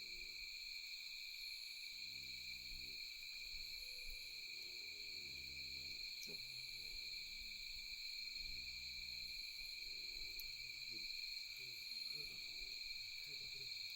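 Insects trilling steadily in the night. A low call that is tagged as an owl's hoot repeats every three seconds or so, and the wood fire gives an occasional sharp crackle.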